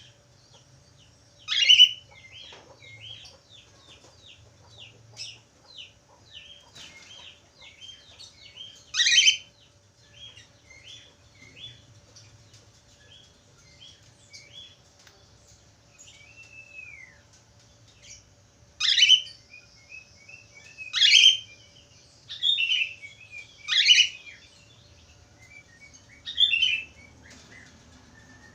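Budgerigars chattering and warbling: a run of quick soft chirps, broken by several loud sharp calls and one short falling whistle about halfway through.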